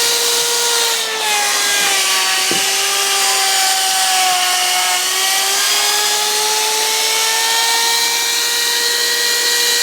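Electric wood router running and cutting along the edge of a board: a steady high whine over the hiss of wood being cut. Its pitch dips slightly for a couple of seconds midway as the bit bites, then comes back up.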